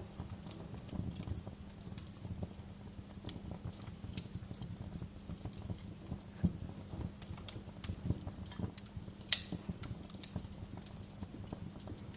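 Wood fire crackling and popping in an irregular scatter of small snaps over a low steady rumble, with one sharper, louder pop about nine seconds in.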